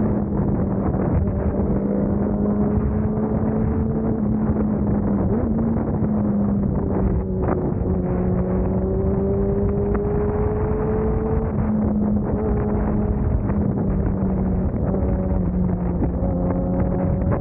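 Motorcycle engine running at a steady cruising speed, its pitch drifting slightly up and down, under loud wind rush on the microphone. There is one short click about seven seconds in.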